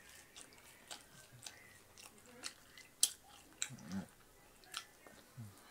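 A person chewing a bite of pizza close to the microphone: a run of wet mouth clicks and smacks, the sharpest about three seconds in. A couple of brief low vocal sounds come around four seconds in and near the end.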